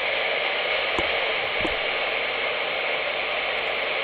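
CB radio receiver hissing steady static with the squelch open, no station transmitting. Two faint low knocks come about a second in and again shortly after.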